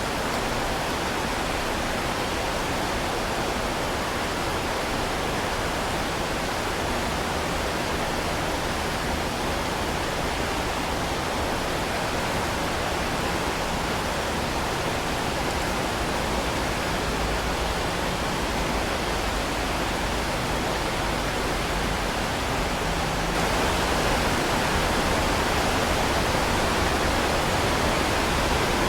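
Heavy rain falling in a steady, even hiss that turns a little louder and brighter near the end.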